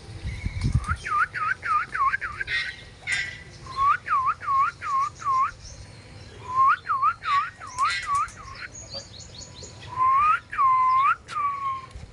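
Runs of loud, clear whistled notes, four to six in a row, each note dipping in pitch and swinging back up, repeated in four bursts, the last with longer held notes. Short sharp clicks come in between the runs.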